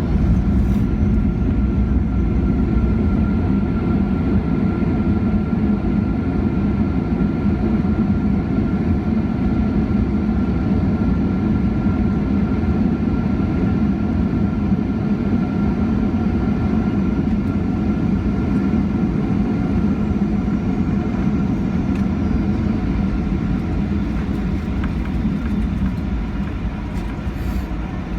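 Cabin noise inside a Boeing 737-800 rolling on the ground after landing: the steady low rumble of its engines and wheels with a faint steady whine, easing off gradually near the end as the jet slows toward taxi speed.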